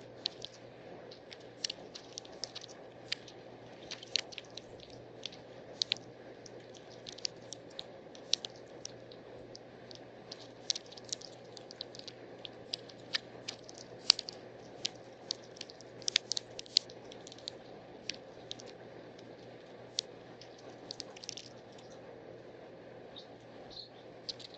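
Small birds pecking at seed and cracking shells: irregular sharp taps and cracks, sometimes several a second, a few much louder than the rest.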